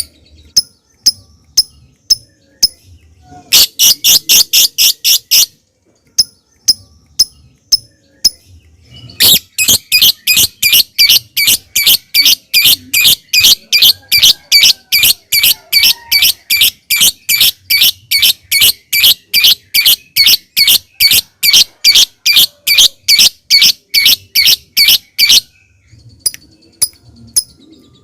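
Lovebird ticking with sparse single sharp calls, then breaking into ngekek: rapid runs of repeated high chattering calls, one short run of about two seconds and then, after more ticks, a long unbroken run of about sixteen seconds at roughly three to four calls a second, before going back to single ticks.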